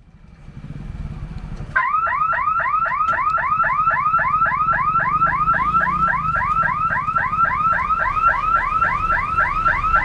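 An electronic warning siren sounding a rapid whooping pattern, about four whoops a second, starting about two seconds in, over a steady low rumble.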